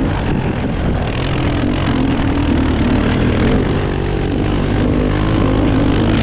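Small off-road engine running steadily with small rises and falls in revs.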